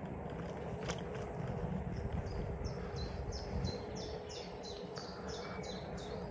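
A songbird singing a run of about a dozen short, falling high notes, about three a second, beginning about two seconds in, over a steady low outdoor rumble.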